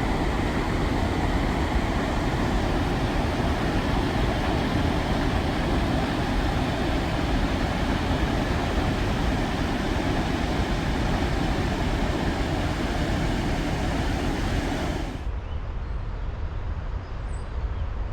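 Steady roar of the flood-swollen Susquehanna River rushing past, loud and even. It cuts off suddenly about 15 seconds in, leaving a quieter low rumble.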